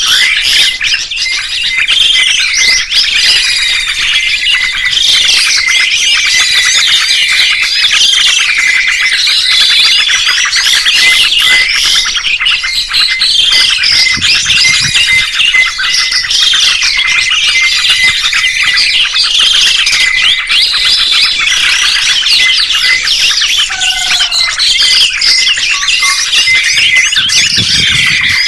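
Songbirds singing and chirping continuously: a dense run of repeated, rising-and-falling whistled phrases and trills, with no break.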